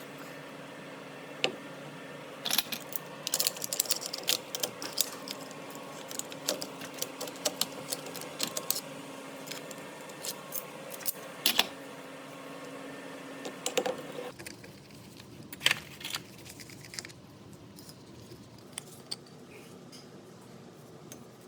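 Metal parts and hand tools clicking and clinking in irregular handling noises while an air angle grinder is taken apart, with a steady hum behind them that stops about two-thirds of the way through.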